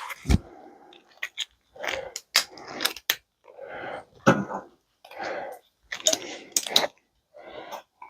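A dog barking repeatedly in short, rough barks, with sharp clicks between them.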